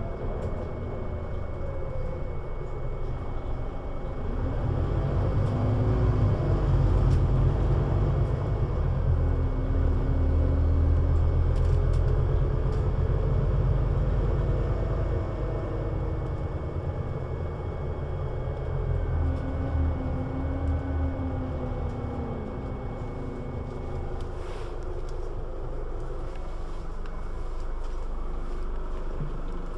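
Scania CN320UA 6x2/2 (Citywide LFA) three-axle city bus under way: a steady deep engine rumble that builds for the first several seconds, then slowly eases off. Whining tones glide up and down over it as the bus speeds up and slows.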